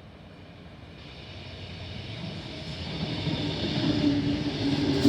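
A train approaching, its rumble growing steadily louder, with a humming tone coming in over the second half.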